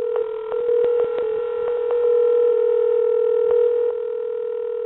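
A steady, unbroken telephone tone over a phone line, like a dial tone, with a string of short clicks on the line during the first few seconds.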